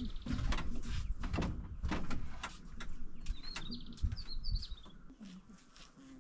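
A small bird chirping in a quick run of high notes a little past three seconds in, over a scatter of sharp clicks and knocks that thin out near the end.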